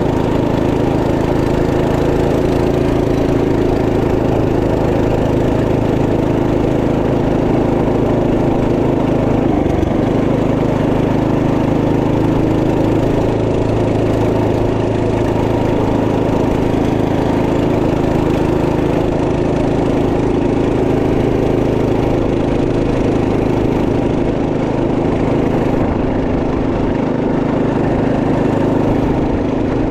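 Trail Master MB200 minibike's 212cc single-cylinder four-stroke engine running steadily at a fairly even pitch, with a brief change in its note about ten seconds in.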